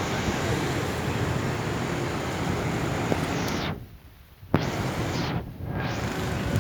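Loud, steady rushing noise with a heavy low rumble, outdoor street noise. It cuts out abruptly twice for about a second in the second half, with a sharp click between the gaps.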